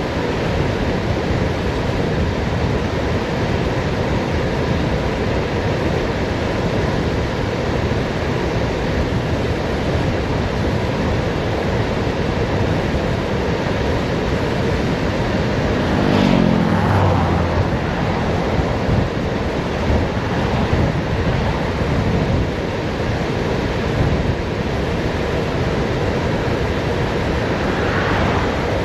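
Wind rushing over the microphone of a bicycle coasting fast downhill, a steady loud noise. About halfway through, a passing vehicle's sound falls quickly in pitch.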